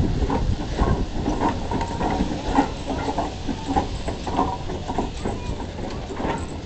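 Railway locomotive moving slowly on the track: a low rumble under many irregular metallic clanks and knocks from its wheels and running gear.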